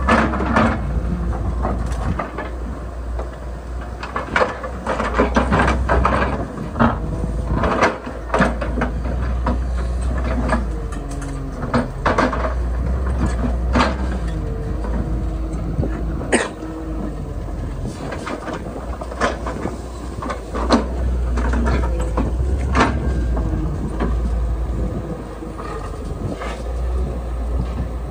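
Excavator at work: engine running with a steady low rumble, overlaid by frequent irregular metallic clanks and knocks and gliding whines that rise and fall.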